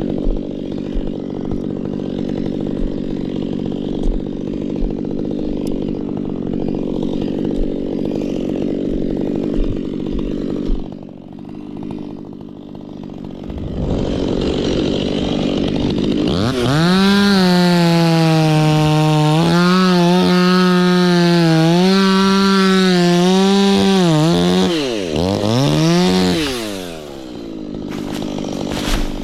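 Two-stroke chainsaw idling for about ten seconds, then revved up sharply to full throttle about halfway through. It is held at high revs, its pitch dipping several times as if loaded in a cut. Near the end the revs fall, blip once more, and settle back to idle.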